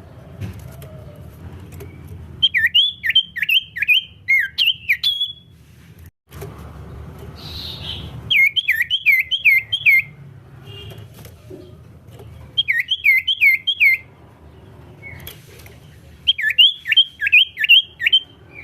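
Common iora (cipoh) singing in four bursts of five or six quick, looping whistled notes, each burst a second or two long. A steady low hum runs underneath.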